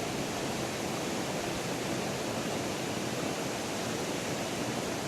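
Steady, even rushing noise that holds unchanged throughout, with no distinct events.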